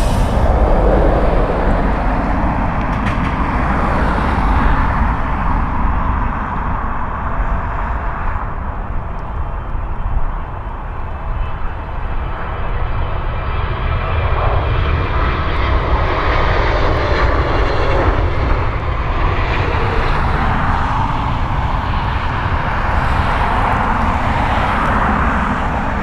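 Twin jet engines of an arriving Emirates Boeing 777 airliner, a loud, steady rushing noise with a deep rumble underneath.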